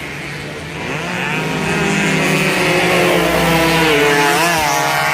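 Two-stroke racing motorcycle engines running at high revs, with more than one engine pitch at once. The sound grows louder about a second in, and near the end one engine's pitch rises and falls.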